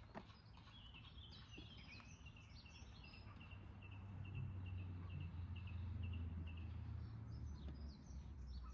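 Small bird calling in a long run of short, quick repeated chirps, with a few higher notes near the start and the end. Underneath is a faint low rumble that grows louder in the middle.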